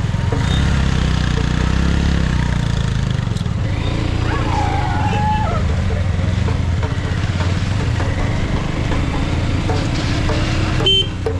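Motorcycle engine running at a steady pace while riding, a continuous low rumble. A short wavering tone comes about four to five seconds in, and there is a brief sharp break near the end.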